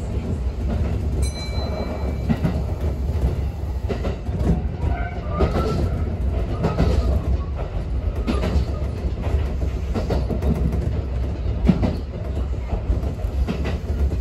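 Kintetsu electric train running along curved track, heard from the driver's cab: a steady rumble of wheels on rail with rail-joint clicks and a few brief faint squeals from the wheels on the curve.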